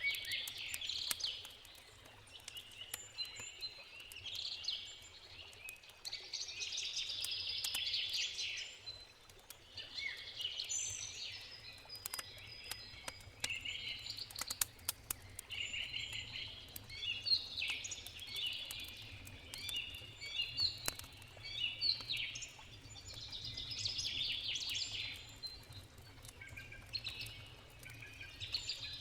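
Forest songbirds singing in short phrases that come every few seconds, over the scattered pops and crackles of a wood campfire and a steady low rush of river water.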